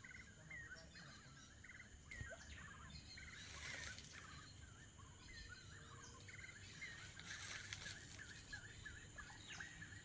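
Amazon rainforest ambience, faint: many short, repeated chirping animal calls overlap throughout, over a steady high-pitched insect drone.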